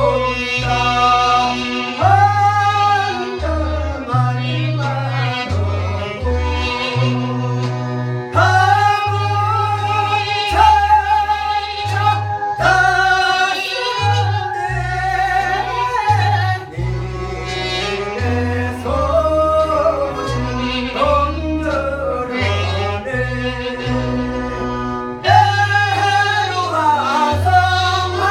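A singer performing a Korean song over an amplified accompaniment, with a bass line moving note by note under a continuous sung melody.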